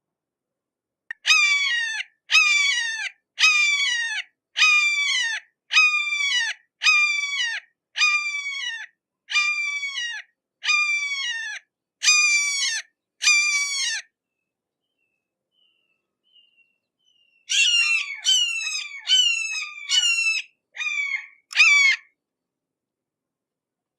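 Hawk giving a series of harsh, downward-sliding screams, about one a second. After a short break, a quicker run of calls comes near the end.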